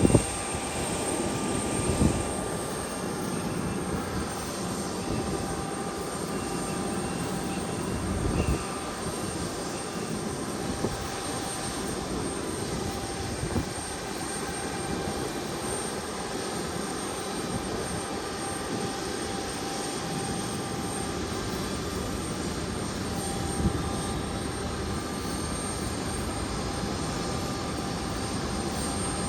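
Airliner engines running at an airport, a steady rushing noise with faint whining tones, rising slightly in pitch near the end. A few short knocks stand out, the loudest at the very start and about two seconds in.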